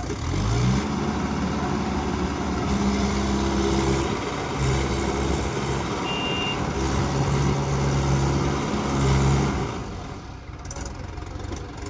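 Mahindra tractor's diesel engine revving up in the first second, then running steadily at raised revs with its note wavering slightly, and easing off shortly before the end. A brief high beep sounds about halfway through.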